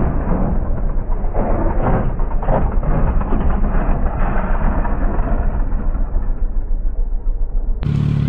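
Muffled, rough motorcycle riding noise, engine and road sound mixed with irregular knocks. Near the end it changes abruptly to a clearer, steady low hum.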